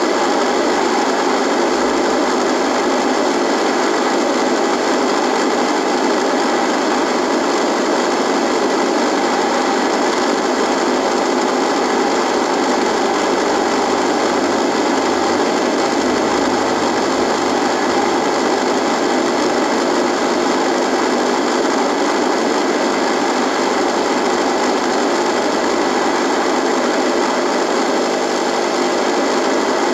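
Radio buzzing with steady static, an even hiss-like buzz with no tuning changes or voices.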